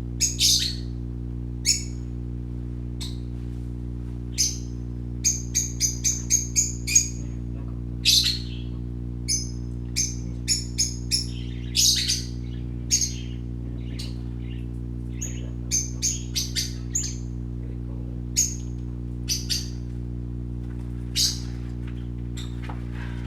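Small parakeets chirping: short, high calls, some singly and some in quick runs, over a steady low hum.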